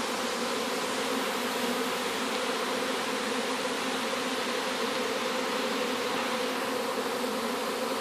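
Steady, dense hum of a large mass of honey bees flying out over the front of a hive in a swarm-like display.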